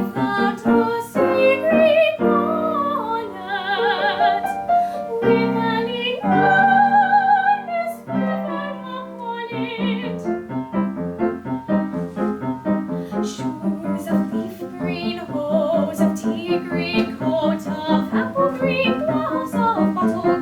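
A woman singing a classical art song in a trained voice, with piano accompaniment. Her held notes waver with vibrato, most clearly about 4 and 7 seconds in.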